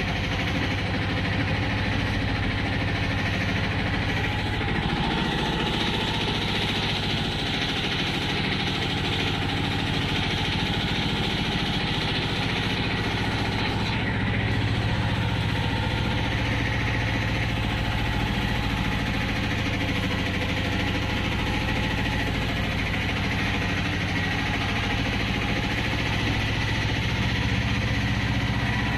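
Train running: a steady rumble with a low hum, even throughout with no sudden events.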